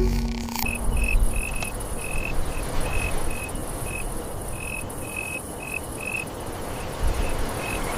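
Insects chirping: short high chirps repeated at uneven intervals over a steady very high buzz and a rushing noise background.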